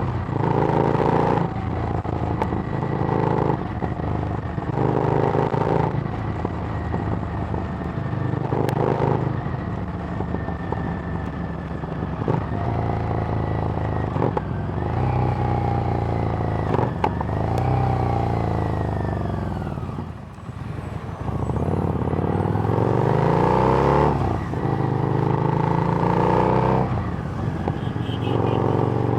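Harley-Davidson Street Rod's 750 cc V-twin through a Screamin' Eagle exhaust, under way on the road: it pulls through the gears with short breaks at each shift. About seventeen seconds in it eases off and the pitch falls; around twenty seconds in it pulls away again, rising and shifting up.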